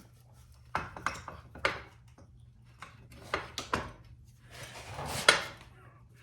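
Metal parts of a motorcycle's rear hub and sprocket being handled: a few sharp clinks and knocks, then a rubbing scrape with one louder knock near the end.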